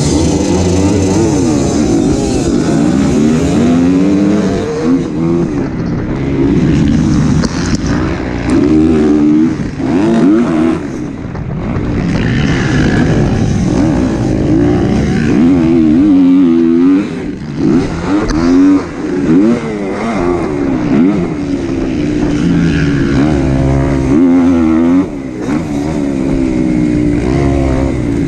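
Kawasaki KX250 four-stroke single-cylinder motocross engine at race pace, revving up and dropping back again and again as the bike is ridden through the track, with short drops in level several times.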